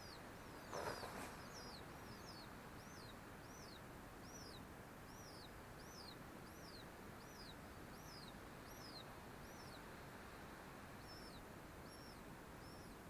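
A bird's thin, high chirps, each rising and falling, repeated about twice a second with a short break near the end, over a faint outdoor hiss. A brief rustle about a second in is the loudest sound.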